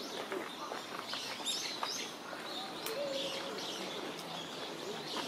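Small birds chirping in short, high calls, bunched about a second in and again later, over a steady outdoor background with faint voices.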